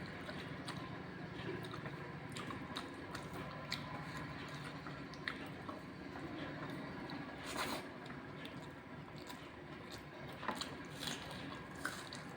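A person eating rice with cauliflower curry close to the microphone: soft wet squishes and chewing, with small clicks throughout and one louder squelch about halfway through.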